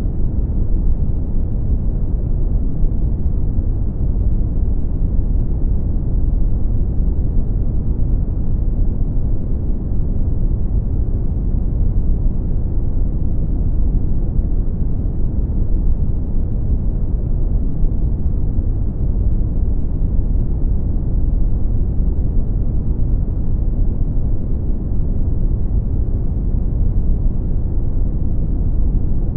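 Brown noise: a steady, deep rumbling hiss, strongest in the lows and fading out toward the highs, with no change or events.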